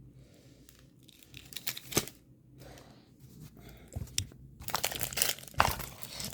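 Plastic packaging crinkling and rustling as the small bags of diamond painting drills are handled, with a few sharp clicks. Sparse at first, then denser rustling from about the middle.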